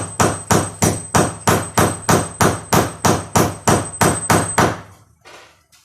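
Hammer blows struck in a steady rhythm, about three a second, stopping a little over four and a half seconds in, followed by a couple of faint knocks.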